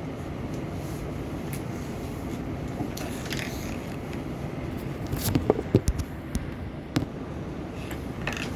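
Steady low background rumble with a cluster of sharp knocks and clicks about five to seven seconds in.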